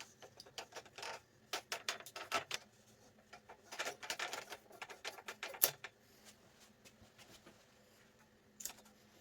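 Hand work on bicycle parts at a bench: a run of small clicks, taps and scraping rustles for about six seconds, then only an occasional tick.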